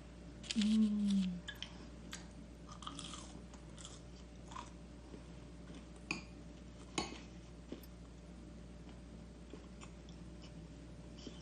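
A person chewing and biting crunchy Korean spicy garlic fried chicken (kkanpunggi), with crackling crunches and mouth clicks. A brief low hum comes about half a second in, during the loudest bite.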